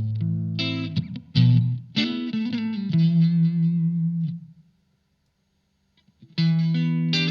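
Electric guitar played through a Blackstar ID Core Stereo 40 amp: a few struck notes and chords, then a single note held with vibrato that fades out about four and a half seconds in. After about a second and a half of silence, chord playing starts again.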